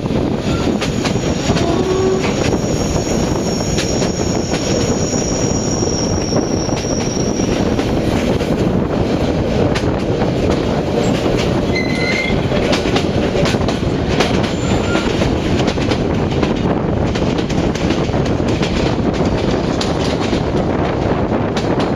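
Passenger train running on the rails with a steady loud rumble and rattle of wheels and carriage. A thin high squeal runs through the first several seconds.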